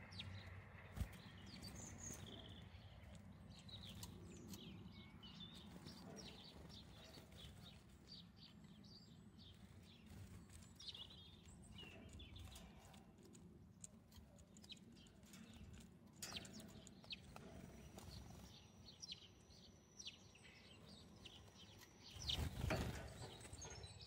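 Faint small songbirds chirping and calling, over a steady low rumble of wind. Near the end comes a brief, louder rush of noise.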